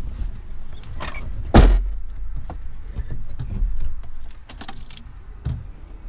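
Car sounds: a low steady rumble with a loud, sharp thump about a second and a half in, then scattered clicks and rattles.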